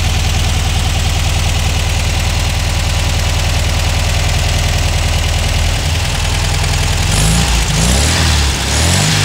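Air-cooled flat-four engine of a 1962 Volkswagen Beetle idling steadily, then blipped by hand at the carburettor throttle linkage about seven seconds in, its pitch rising and falling a few times. Music starts to come in at the very end.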